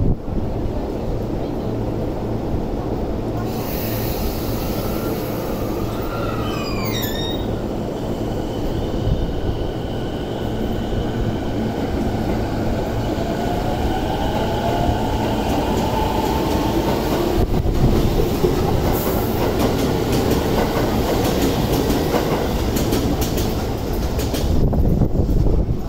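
Toei 10-300 series electric train pulling out of the station. Its traction motors give a rising whine as it picks up speed, over the rumble and clatter of the wheels, with a brief falling squeal about six seconds in.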